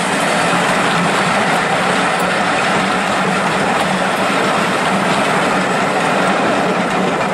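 Passenger carriages of a train rolling past on the rails, a steady rushing rumble of wheels on track with no distinct beats.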